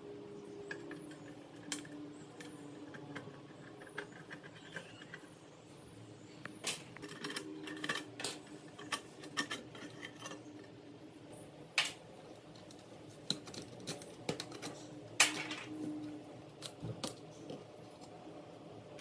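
Irregular clicks and clinks of small hard parts and hand tools being handled during disassembly and cleaning work, the sharpest knock about three-quarters of the way through, over a faint steady hum.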